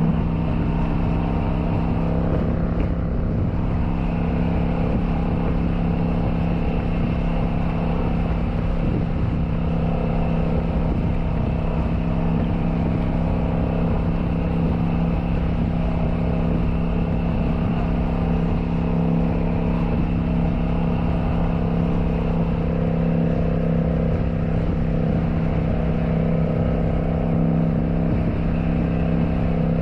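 Kawasaki Vulcan 900's V-twin engine running at a steady cruising speed, its note holding one pitch, over a constant rushing noise.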